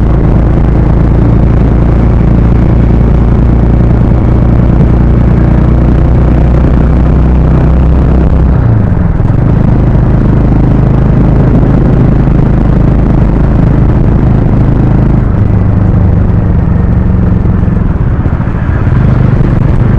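Harley-Davidson X440's single-cylinder engine and exhaust running under way, a loud steady note whose pitch changes about eight seconds in and again about fifteen seconds in.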